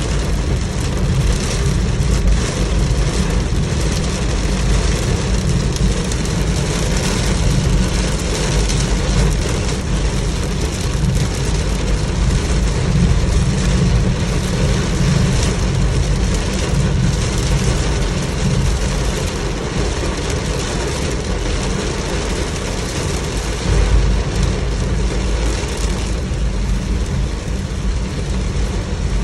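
Heavy rain hissing steadily, thick with fine ticks, over the steady low rumble of a car.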